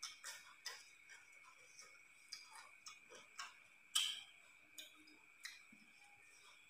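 Close-miked chewing and lip-smacking as a man eats stir-fried eel and rice with his fingers: irregular wet mouth clicks, the sharpest about four seconds in, over a faint steady high whine.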